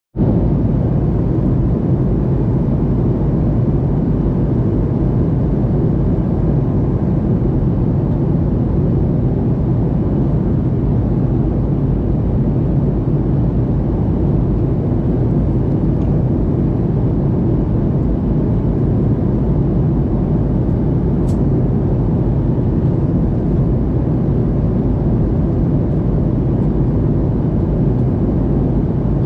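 Airliner cabin noise in flight: a steady low drone of engines and rushing air, unchanging throughout.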